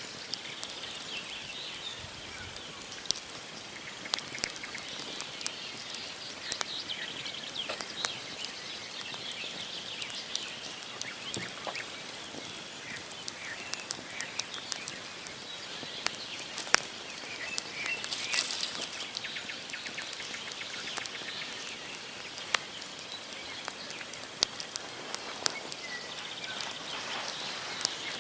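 Wood campfire crackling, with frequent sharp pops and snaps from burning logs over a steady hiss. Small birds chirp faintly now and then.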